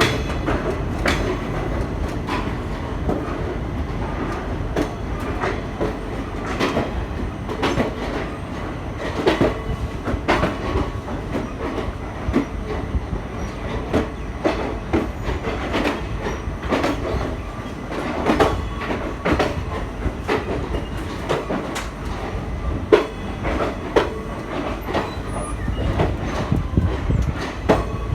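Indian Railways passenger train running, with a steady low rumble and irregular sharp clacks of the wheels over rail joints.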